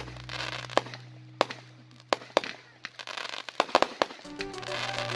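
Fireworks going off: an irregular string of sharp bangs as shots burst overhead, with hissing crackle between them, several bangs close together a little before four seconds in. Music comes back in about four seconds in.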